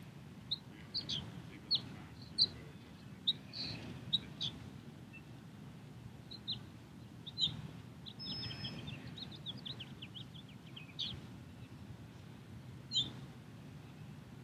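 Small birds chirping: short high chirps every second or so, with a quick run of chirps about eight seconds in, over a low, steady outdoor background hum.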